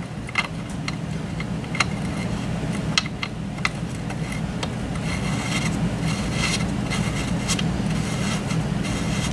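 Scattered light metal clicks and rubbing as a spring-loaded shift detent plug is threaded by hand into a Kawasaki Mule transmission case, over a steady low hum.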